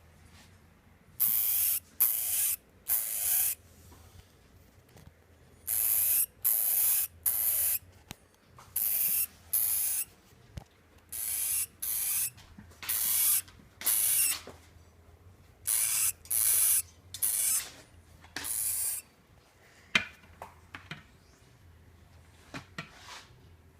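A hamster's defensive hissing: repeated short, breathy hisses of about half a second each, mostly in runs of three, given as a threat. Near the end the hissing stops and only a few faint clicks remain.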